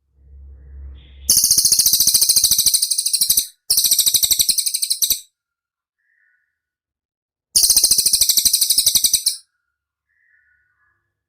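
Songbird's rapid rolling trill from a recorded masteran: three bursts of very fast, high-pitched repeated notes, each about one and a half to two seconds long, with short pauses between.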